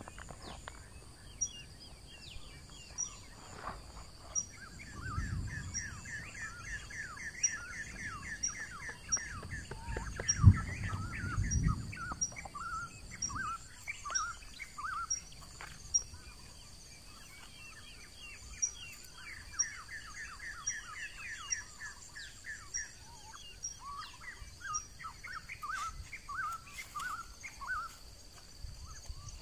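Wild birds chirping in fast repeated runs of short notes over a steady high background drone, with a few dull low knocks from the bark being handled, the loudest about ten seconds in.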